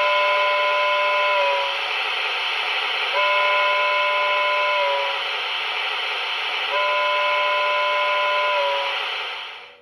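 Lionel electronic synthesized steam whistle of a 4-8-4 Lackawanna Northern model locomotive, sounding three long blasts over a steady hiss, each blast dipping in pitch as it ends.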